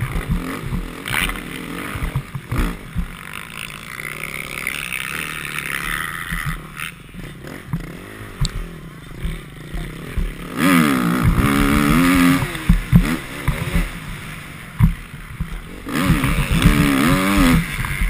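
Motocross bike engine being ridden hard, its revs rising and falling repeatedly, loudest in two spells of hard revving about ten seconds in and again near the end, with short dull knocks throughout.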